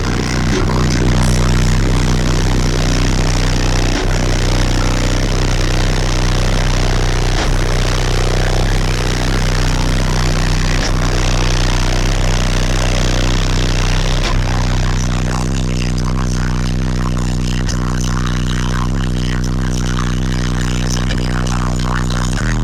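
Two AQ HDC4 12-inch subwoofers in a ported box playing bass-heavy music very loud, with long held deep bass notes that slide down in pitch near the end. The trunk is not yet sealed off.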